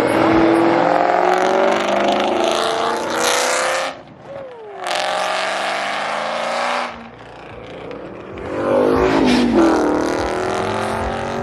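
Ford Mustang engine revving hard in long loud pulls, dropping off briefly about four and seven seconds in, then rising again to a final rev that peaks and falls away near the end.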